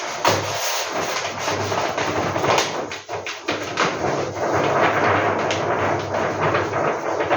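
Paper and packaging being handled: continuous rustling and crinkling, broken by frequent small knocks and thuds.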